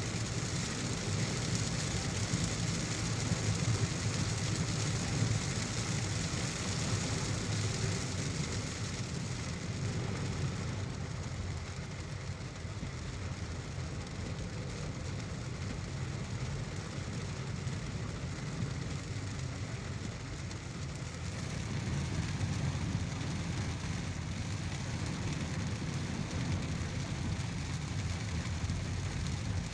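A car driving in heavy rain: a steady rain hiss over a low road rumble. The brighter part of the hiss thins out about ten seconds in.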